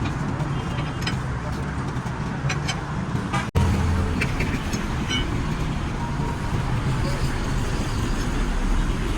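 Roadside traffic noise: a steady rumble and hiss of vehicles running and passing. The sound cuts out for an instant about three and a half seconds in.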